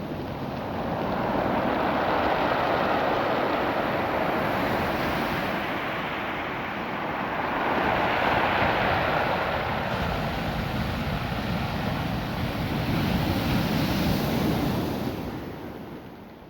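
Ocean surf washing over a beach of small rounded rocks, the noise swelling and easing with each wave. It fades away near the end.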